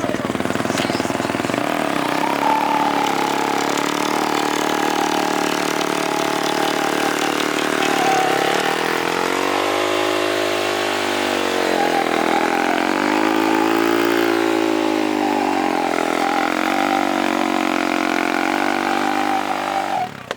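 Engine of an off-road racing vehicle running close by, its revs rising and falling several times, with the biggest swells about halfway through and again a little later. It cuts off abruptly at the end.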